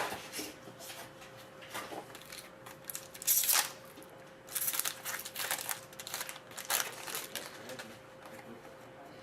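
Hockey card pack being opened by hand: packaging crinkling and tearing in several short bursts, with cards sliding and flicking against each other in between.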